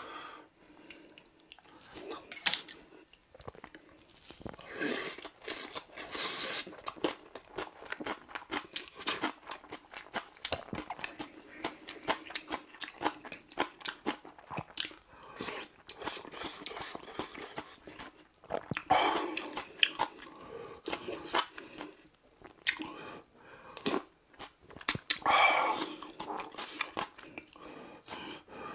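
Close-up eating sounds: crunchy chewing of mixed rice with raw julienned radish salad, with a wooden spoon clicking and scraping against a brass mixing bowl.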